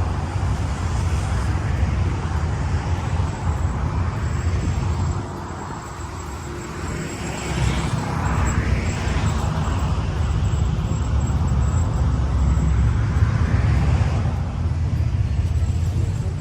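Road traffic: a steady low rumble of vehicles, with a passing vehicle's noise swelling and fading about eight to nine seconds in.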